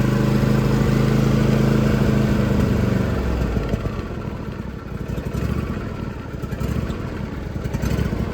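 Old John Deere tractor engine running with a steady even note. About three seconds in, the steady note breaks off and gives way to a quieter, uneven rattle.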